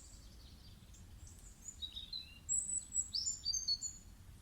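A small bird chirping a quick run of short, high notes about halfway through, over a faint steady low hum.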